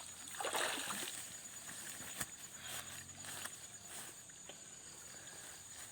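Faint splashing and sloshing of river water, with a short rush about half a second in and scattered small knocks, over a thin steady high-pitched hum.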